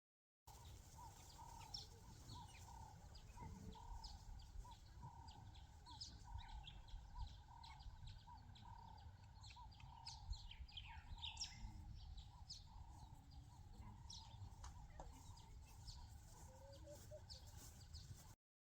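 Faint birdsong: one bird repeats a short note about twice a second, while other birds give quick high chirps, busiest around the middle, over a low steady rumble.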